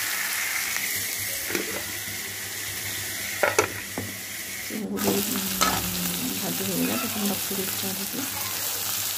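Chopped onion, tomato and a dried red chilli frying in oil in a kadai, sizzling steadily, while a long metal spatula stirs them and knocks against the pan a few times.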